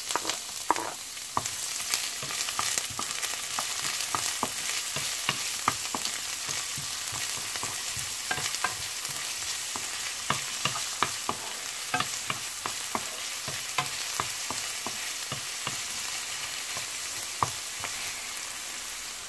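Diced onion and garlic sizzling in a little hot oil in a frying pan, with a steady hiss, stirred by a wooden spoon that clicks and scrapes against the pan many times.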